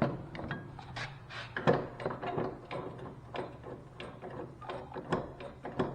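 Zero-turn mower lap bar clunking and rattling in irregular knocks as it is worked back and forth, the sound of slop in its worn, loose mounting.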